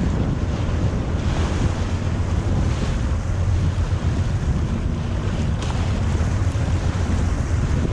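Steady wind rushing over the microphone on a Sea-Doo jet ski under way, with water noise and a low engine drone underneath.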